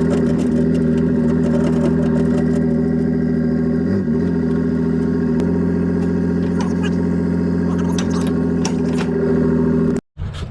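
A vehicle engine running steadily with a low drone, its pitch shifting slightly about four and five and a half seconds in. It cuts off suddenly near the end.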